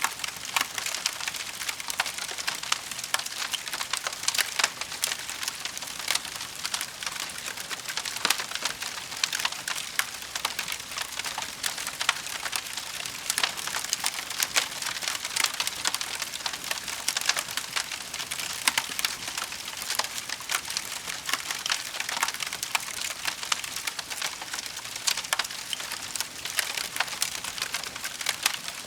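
Wood fire burning with a steady hiss and constant fast crackling and popping.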